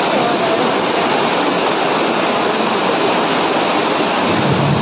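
Steady loud rush of fast-flowing floodwater.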